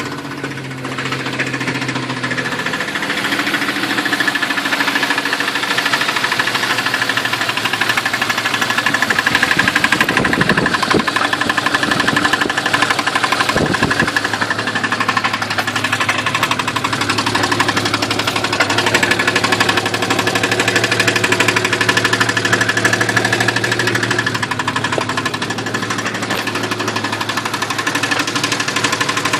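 1992 Jeep Cherokee XJ engine running with a steady metallic clanking. It is present whether accelerating, stopped or in any gear, even though fluid levels and oil pressure read normal.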